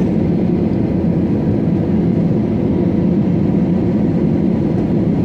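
Airliner cabin noise: a steady, even drone of jet engines and airflow heard from inside the passenger cabin.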